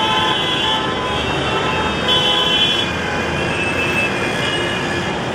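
Busy road traffic with several vehicle horns honking on and off over the running engines and road noise.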